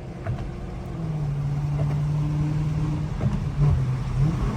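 V8 muscle car engine running with a steady low drone. It steps up in pitch and gets louder about a second in, holds, then wavers briefly near the end.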